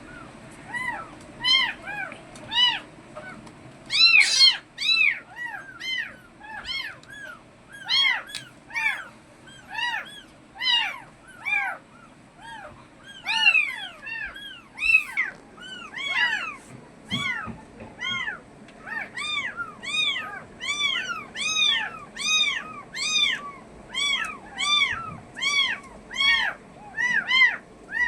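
Kittens mewing over and over, short high calls that rise and fall in pitch, about one or two a second. The calls often overlap, as from more than one kitten.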